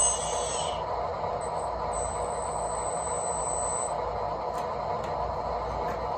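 Small electric motors of RC construction models whining high and thin over a steady background hiss, the whine fading just under a second in and coming back for about two seconds in the middle.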